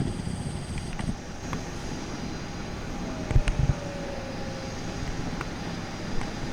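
Steady jet aircraft noise across the airfield, with wind buffeting the microphone in a few low thumps a little past the middle.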